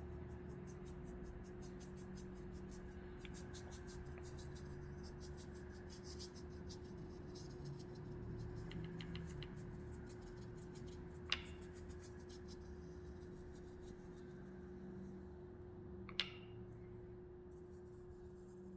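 Acrylic paint being dabbed and brushed onto paper in quick, scratchy strokes. Two sharp clicks come later, one about eleven seconds in and one about sixteen seconds in. A faint steady hum runs underneath.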